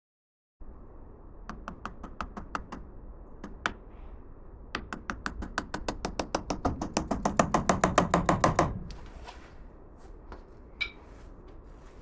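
Hammer taps. A few scattered at first, then a quick even run of about five a second that grows louder for about four seconds and stops.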